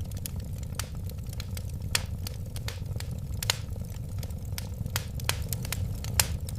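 Wood fire burning, with a steady low rush of flame and irregular crackles and sharp pops, the loudest pops about two, three and a half and six seconds in.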